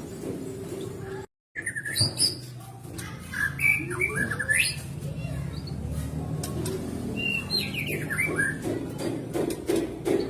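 White-rumped shama (murai batu) singing short whistled phrases with quick rises and falls in pitch, in two bursts with a pause between. The sound drops out for a moment just after a second in, and a run of low, quick pulses is heard near the end.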